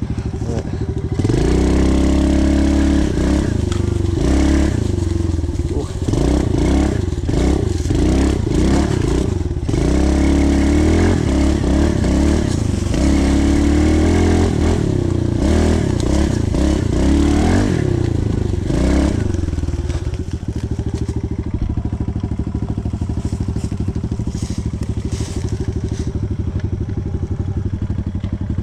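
Pit bike engine revving up and down over and over as the bike is ridden, the pitch rising and falling every second or two; about two-thirds of the way in it settles to a steadier, lower running.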